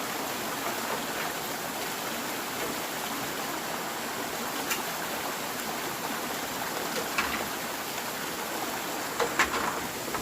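Steady rushing of water, with a few sharp clicks or snaps near the middle and end.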